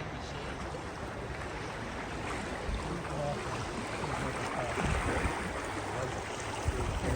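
Steady rushing of a fast-flowing river, with wind buffeting the microphone.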